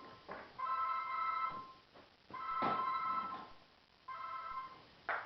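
Telephone ringing: three rings of about a second each, with short pauses between, and a brief knock near the end.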